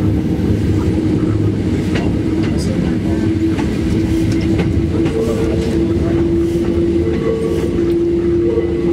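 Hakone Tozan Railway electric train running up the mountain line, heard from inside the passenger car. A steady loud rumble of wheels on rail carries scattered clicks and a steady hum that grows stronger about halfway through.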